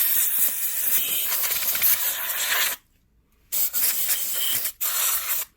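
Compressed air duster spraying in three hissing bursts: one long blast of almost three seconds, then after a short pause a shorter blast, and a brief final one. It is blowing dust out of a PlayStation 4's clogged heatsink and cooling fan.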